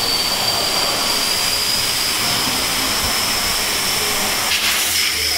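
Compressed air hissing steadily, with a high whine that climbs slightly.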